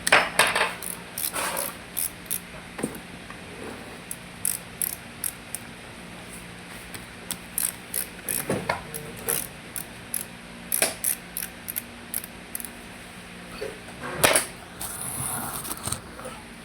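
Metal hand tools working on a car engine during reassembly: irregular light metallic clicks and ticks, with a few louder knocks near the start and about two seconds before the end, over a faint steady hum.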